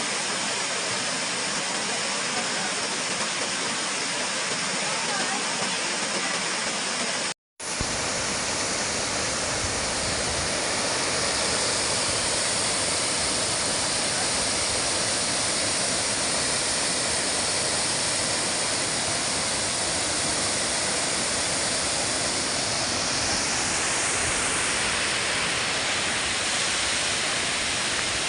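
Water of a large waterfall rushing as a steady, even noise. It drops out for a split second about a quarter of the way in, then comes back fuller, with more low rumble.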